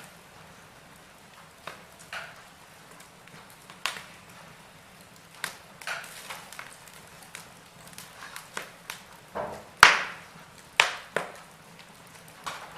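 Wood fire crackling in a fireplace: irregular sharp pops and snaps over a faint steady hiss, the loudest snap about ten seconds in.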